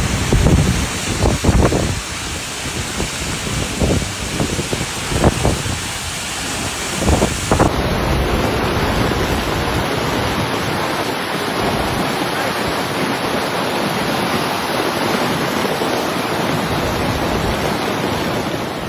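Heavy rain and wind in a flash-flood storm: a steady rush of noise, with wind buffeting the microphone during the first several seconds. The sound changes abruptly about eight seconds in, as at a cut to other footage of the same storm.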